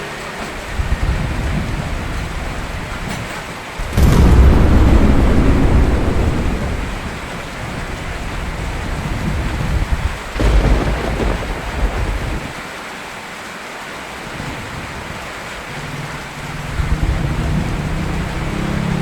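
Steady rain with thunder: a sudden loud clap about four seconds in that rumbles away over a few seconds, a second, shorter clap about ten seconds in, and fainter low rumbles between them.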